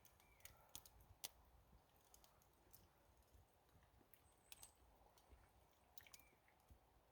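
Near silence with faint chewing and a few small, irregular clicks from someone eating noodles.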